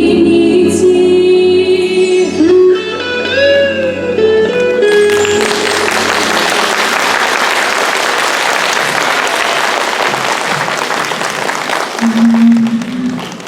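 A song with instrumental accompaniment ends on held sung notes, then an audience applauds for several seconds.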